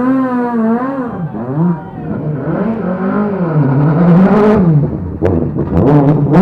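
Rally car engine revving up and down repeatedly with throttle changes, with a few sharp pops about five to six seconds in.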